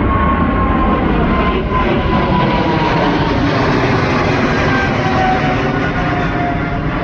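Jet airliner's engines running loud and steady, with a whine that slowly falls in pitch as the aircraft passes.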